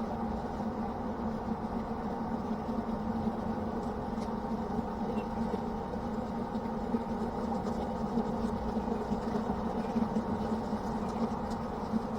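Pellet grill running with a steady motor hum, its fan and auger going, with a few faint ticks over it.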